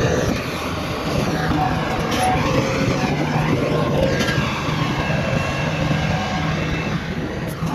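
Bulldozer's diesel engine running steadily under load as it works, with a few sharp knocks along the way.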